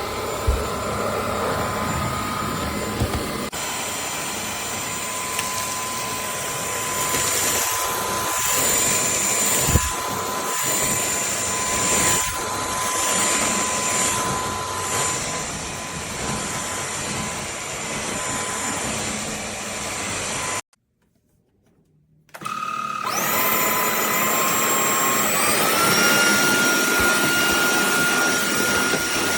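KCLASO cordless stick vacuum running with a steady high motor whine. It switches off about two-thirds of the way through, then starts again after a second or two, its pitch stepping up as the motor climbs to speed.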